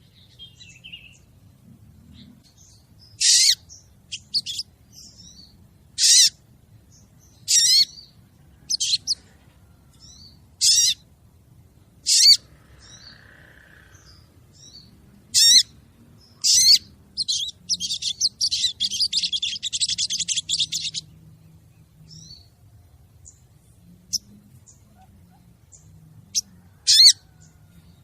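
Female sogon bird calling: a series of short, sharp, high-pitched calls, each lasting well under a second and repeated every one to three seconds. About two-thirds of the way in comes a rapid rattling trill lasting a few seconds. This is a lure call of the kind used to draw males.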